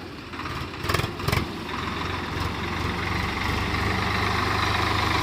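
Swaraj 744 XT tractor's diesel engine running with a steady drone, growing louder after about two seconds. Two sharp knocks sound about a second in.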